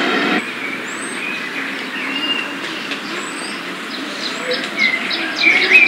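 Small birds chirping and twittering, with short high calls scattered through and louder near the end. A steady mechanical hum cuts off abruptly about half a second in.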